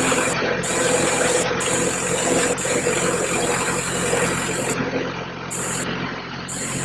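Farm tractor engine running steadily while the tractor is driven across a pasture.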